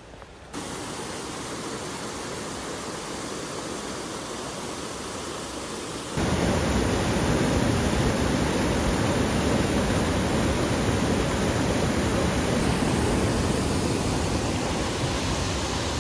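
Steady rush of falling water, a waterfall. It gets abruptly louder about six seconds in, where one shot cuts to a closer one.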